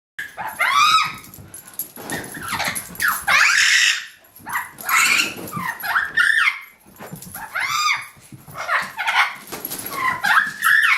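Puppy yipping and barking in repeated short, high calls that come in bursts.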